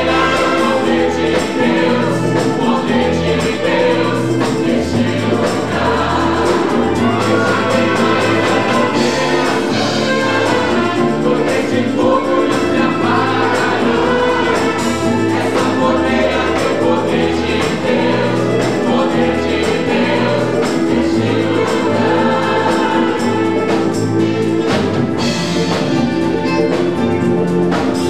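Gospel music: a choir singing over instrumental accompaniment with a pulsing bass line.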